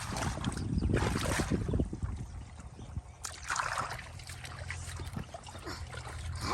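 Shallow muddy water sloshing and splashing irregularly as hands grope through it for fish, busiest in the first two seconds, with a steady low rumble underneath.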